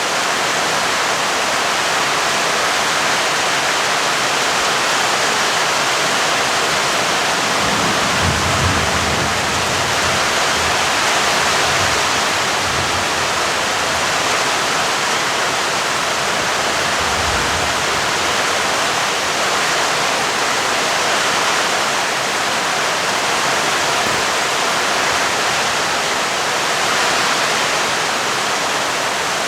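Steady heavy rainfall, with a low rumble of thunder starting about eight seconds in and lasting several seconds, and another short rumble a little after the middle.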